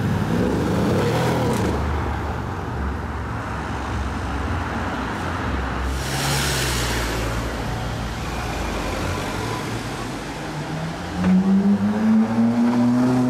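Car engines rumbling low in street traffic, with a brief rush of noise midway as a car goes by; near the end a car engine accelerates hard, its pitch climbing steadily and loudly.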